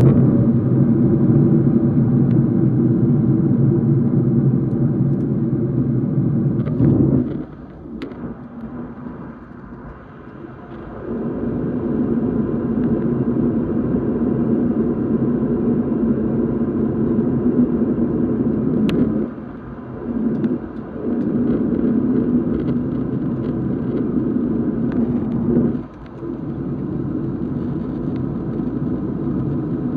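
Boeing 737 engine and airflow noise: a loud, steady low rumble that falls away for a few seconds about a quarter of the way in and dips briefly twice more, with a couple of sharp clicks.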